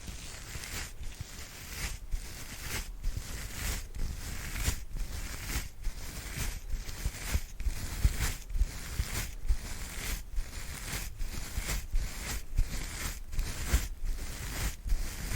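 ASMR brush strokes, a soft brush swept in a steady rhythm of a little more than one stroke a second, each a hissy swish, with low handling thuds beneath.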